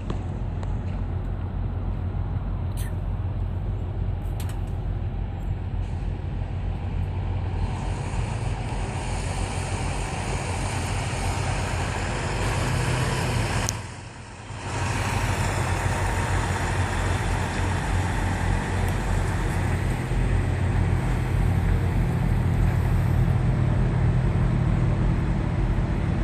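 Steady low rumble of idling truck engines, dipping briefly about halfway through.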